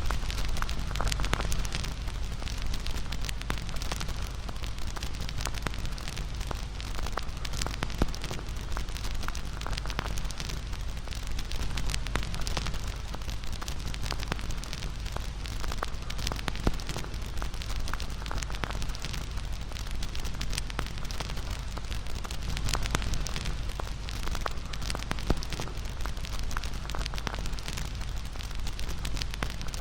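Wood fire crackling and popping continuously, with a few louder snaps standing out, over a steady low rumble.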